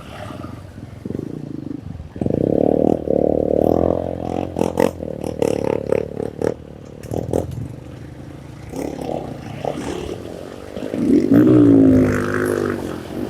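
Honda CRF150's single-cylinder four-stroke engine revving under load, its pitch rising and falling, with sharp clatters and scrapes along the way.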